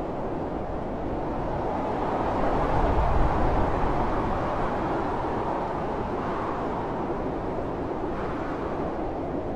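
Blizzard wind rushing steadily, with a stronger gust swelling about three seconds in and easing off.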